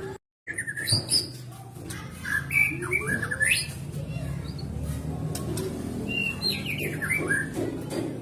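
White-rumped shama (murai batu) singing varied whistled phrases with quick rising and falling notes, in two bursts, over a steady low hum. The sound drops out briefly near the start.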